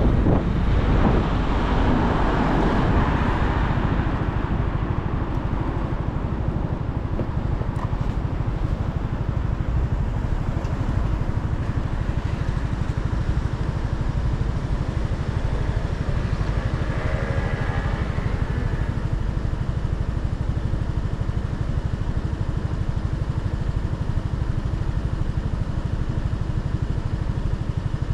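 Motorcycle on the move with engine and wind noise. It is louder over the first few seconds, then settles into a steady low rumble.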